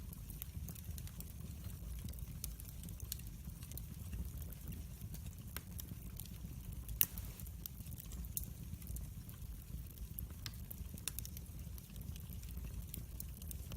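Log fire burning in a fireplace, crackling with frequent sharp pops over a low steady rumble of flame, one louder pop about halfway through.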